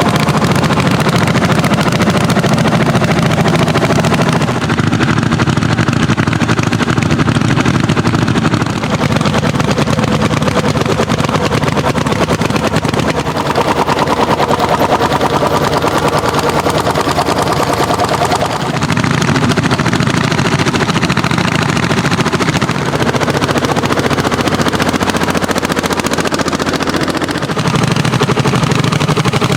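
Old tractor engines working hard under ploughing load: a fast train of loud exhaust beats that changes in character several times, around a third and around two thirds of the way through.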